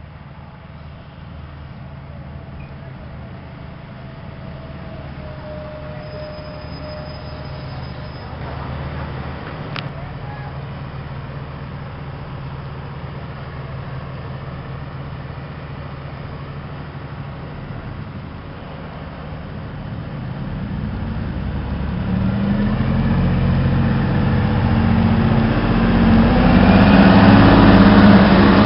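Diesel multiple unit train approaching on the station track, its engine running low and growing steadily louder as it draws near, loudest near the end.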